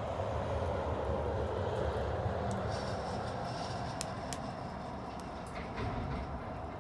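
Bonfire crackling, with a few sharp pops about four seconds in, over a steady low rumble that swells slightly and then eases.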